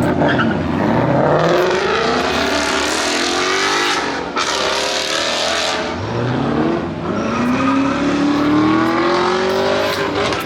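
Car engines accelerating hard, revving with the pitch climbing in several long pulls, with a loud rasping noise through the middle.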